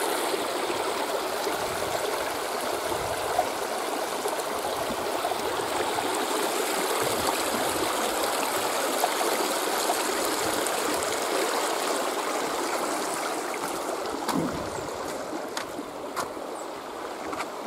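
Shallow river water rushing and splashing over rocks in small rapids, a steady rush that grows somewhat quieter in the last few seconds, with a few light clicks near the end.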